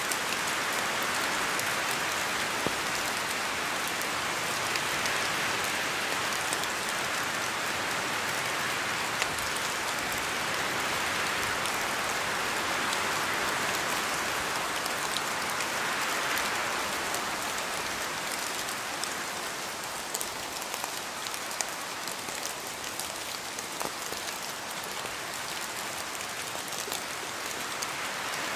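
Steady rain falling on a surface, a dense hiss of many drops with fine individual drop ticks, easing slightly past the middle and picking up again near the end.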